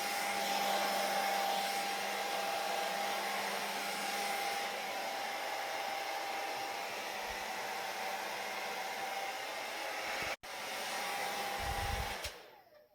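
Hair dryer blowing steadily, a whooshing rush of air with a steady motor whine. It cuts out for an instant about ten seconds in, then is switched off near the end and fades away.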